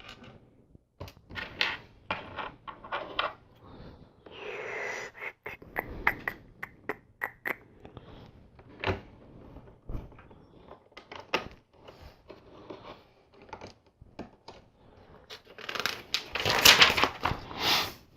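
Plastic LEGO bricks clicking and tapping as they are handled and pressed onto the model, with a short rustle about four seconds in. Near the end comes a denser, louder clatter of loose pieces being sorted through.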